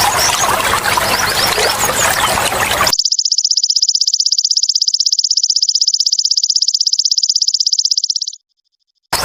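Trickling water with small high chirps, cut sharply at about three seconds by a golden grasshopper (belalang emas) stridulating: a loud, rapid, even, high-pitched buzzing trill that stops abruptly a little after eight seconds, followed by a moment of silence before the water sound returns.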